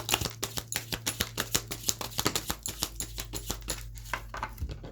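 Tarot cards being shuffled by hand: a quick run of crisp card snaps, about five a second, thinning out near the end.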